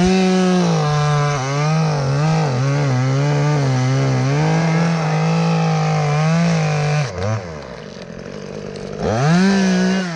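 Chainsaw at full throttle cutting through an ash limb for about seven seconds, its engine pitch dipping and recovering as the chain loads in the wood. It then drops back to idle, with one more brief rev near the end.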